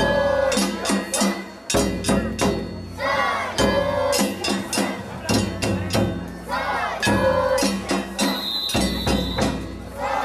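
Japanese festival music for a kunchi float: rapid percussion strikes on drums and metal gong or bells, with a pitched rising-and-falling phrase repeated about every three and a half seconds.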